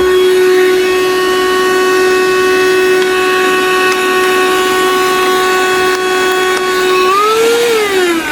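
Motor of a small cordless handheld mattress vacuum cleaner running on its lowest setting with a steady high whine. Near the end the pitch rises briefly, then falls steadily as the motor winds down.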